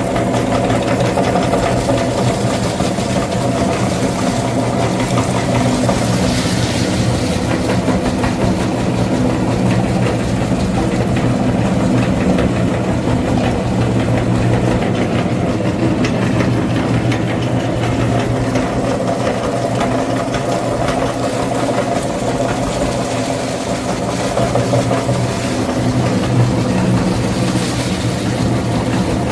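Mini tractor engine running steadily at an even idle, a constant low hum that holds the same pitch throughout.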